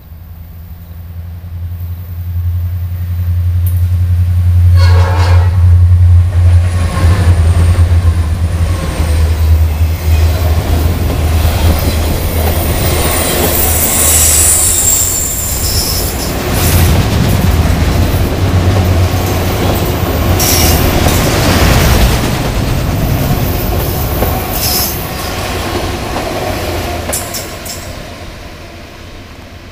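A freight train passing: a diesel locomotive's low engine drone builds over the first few seconds, then the cars roll by with high wheel squeal and several clanks, and the sound fades near the end.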